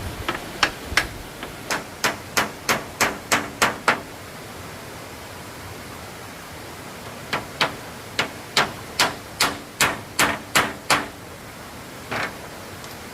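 Hammer blows on wood: two runs of sharp, evenly paced strikes, about three a second, with a single knock near the end, over a steady hiss.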